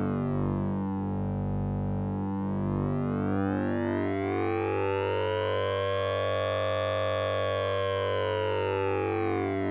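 Synthesized sync and ring-modulation tone from the Orange Vocoder plug-in: a steady low buzzing drone under a dense set of overtones. The overtones sweep slowly, dipping about a second and a half in, rising to a high, bright peak about seven seconds in, then falling again near the end.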